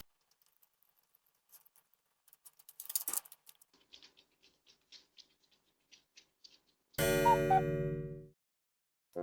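Faint scattered ticks, then a loud buzzer-like sound effect about seven seconds in: one steady pitched tone lasting just over a second.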